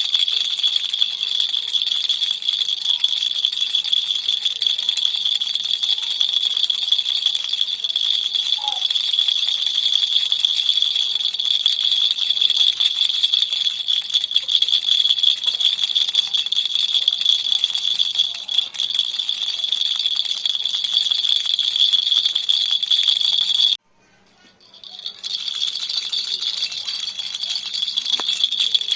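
A baby's toy rattle shaken steadily, a dense, bright, continuous rattling. It stops abruptly a little over three-quarters of the way through, then builds back up within about two seconds.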